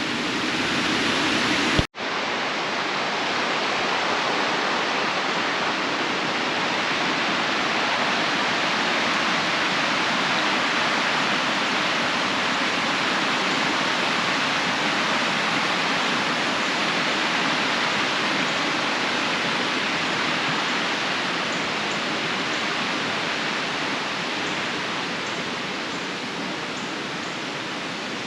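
Rain-swollen river rushing, a steady even noise of fast water that breaks off for an instant about two seconds in and grows a little fainter toward the end.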